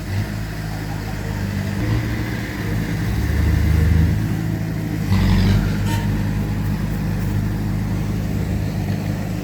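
Diesel engines of heavy earthmoving machinery, a bulldozer and dump trucks, running steadily under load, swelling louder about three to four seconds in and again at about five seconds.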